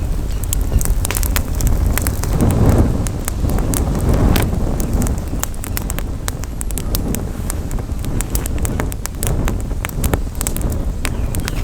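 Campfire crackling, with many sharp pops and snaps, over a low rumble of wind on the microphone that swells a couple of times in the first half.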